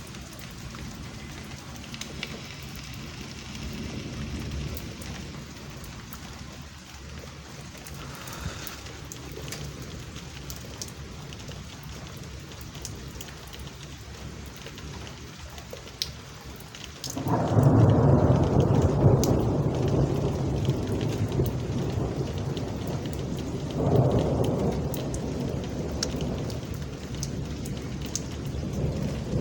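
Thunderstorm: steady rain, then a loud roll of thunder that breaks in a little past halfway and rumbles on, swelling again a few seconds later.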